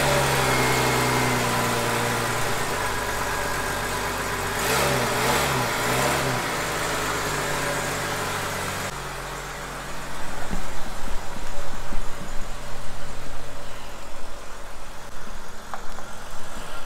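Lifted Jeep Grand Cherokee's engine idling just after starting, blipped three times in quick succession about five seconds in. It then cuts to the Jeep driving slowly, its engine and tyres louder and uneven.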